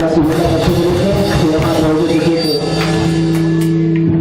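Punk rock band playing live, with drum and cymbal hits; a little under three seconds in, a held note settles and rings on steadily.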